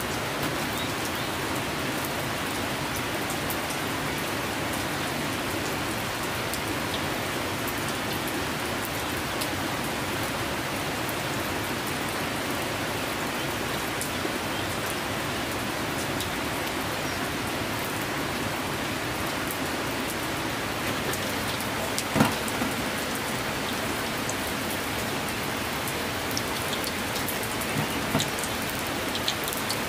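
Steady rain falling and pattering on surfaces, with scattered drip ticks and one sharp knock a little over two-thirds through.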